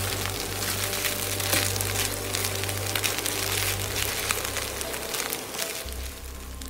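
Spätzle with onions and cheese frying in butter in a pan, sizzling, while a plastic slotted spatula turns and scrapes through the noodles.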